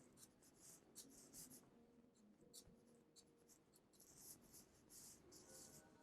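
Faint scratching of a pencil on paper in short, repeated sketchy strokes, drawing feather lines.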